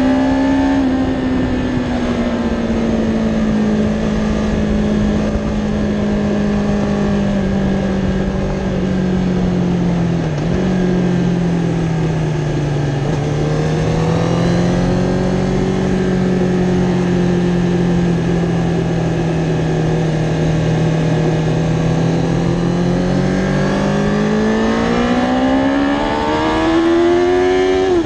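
Kawasaki Ninja ZX-10R's inline-four engine heard from onboard at a track: the revs ease off and dip briefly about ten seconds in, hold steady through a long corner in second gear, then climb strongly in the last few seconds as the bike accelerates out, with a gear change right at the end.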